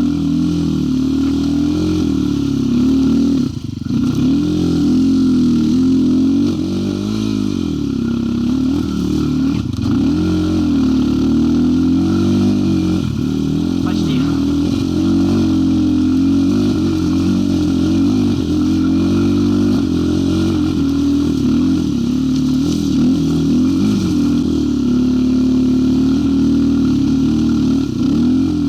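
Zuum NC300 enduro motorcycle's single-cylinder engine running under load, its pitch rising and falling again and again as the throttle is opened and closed.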